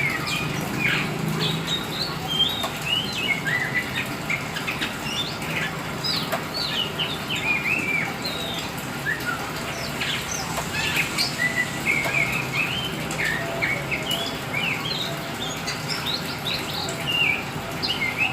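Black oriental magpie-robin (kacer hitam) in full, continuous song: a rapid run of short whistles, chirps and gliding notes with no real pauses.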